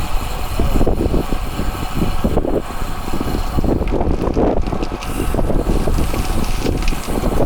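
Wind buffeting the microphone while moving, over steady road noise, with uneven gusts.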